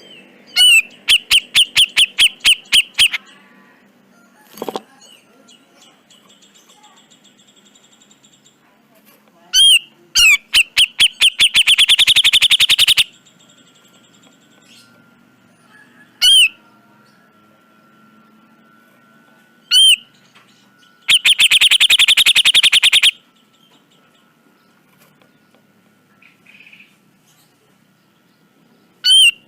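Cucak jenggot (grey-cheeked bulbul) calling: three runs of rapid, harsh repeated notes, each lasting two to three seconds, with single sharp notes between them.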